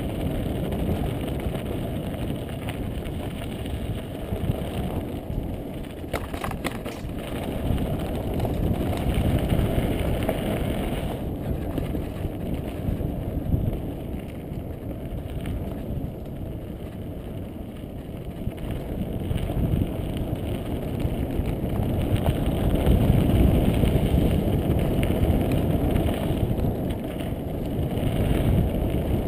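Riding noise from a mountain bike on dirt singletrack: wind buffeting the microphone and a rough low rumble that swells and eases, with a brief rattle about six seconds in.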